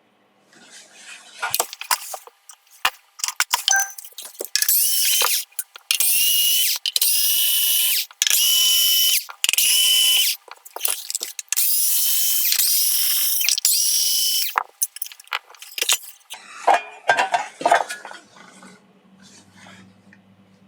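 Small handheld power driver running in repeated bursts of one to three seconds, each spinning up at the start, with clicks and handling knocks in between, as when driving screws out of an amplifier case.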